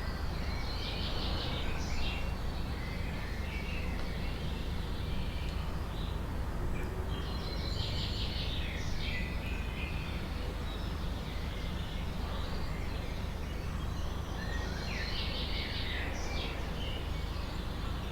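Songbird singing in a forest, repeating a similar short song phrase three times about seven seconds apart, with scattered shorter chirps between, over a steady low background rumble.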